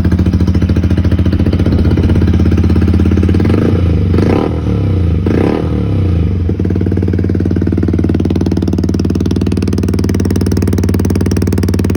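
Yamaha MT-125's single-cylinder four-stroke engine idling, blipped twice in quick succession about four and five seconds in, then settling back to a steady idle.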